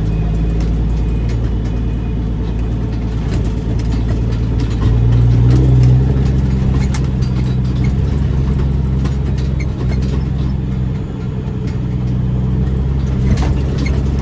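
Straight-piped Caterpillar C13 diesel in a Kenworth W900B dump truck running steadily under way, a low even drone that swells briefly about five seconds in.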